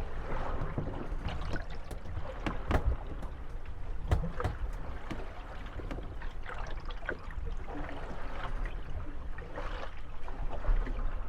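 Moored wooden gondolas rocking on lapping water, creaking and knocking against each other in irregular clusters of short knocks.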